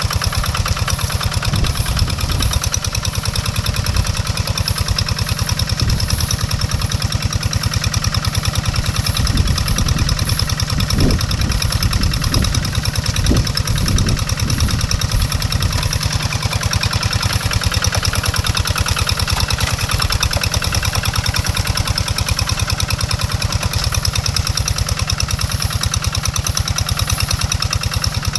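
Tractor engine running steadily, with an even, rapid pulse of firing strokes; a deeper rumble swells between about 9 and 15 seconds in.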